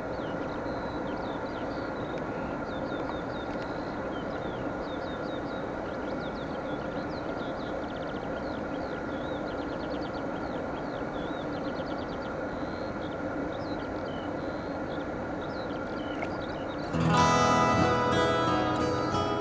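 Small birds chirping and twittering in quick, varied notes over a steady mechanical hum. About three seconds before the end, acoustic guitar music starts suddenly and takes over.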